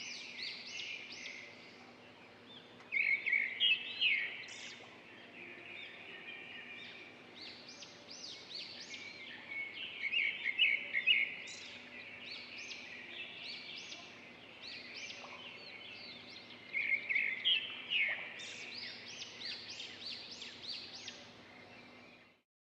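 Several small birds chirping and twittering together in quick, high calls, with louder bursts of rapid chirps about three seconds in, around ten seconds and around seventeen seconds.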